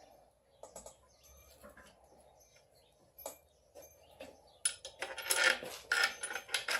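Metal hand tools and parts clinking: scattered light clicks, then a busy, irregular clatter of metal on metal for the last two seconds or so.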